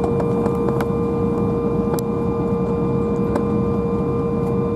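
Steady cabin noise of an Embraer 175 on the ground: an even rushing hum under a constant high whine, with a few faint clicks.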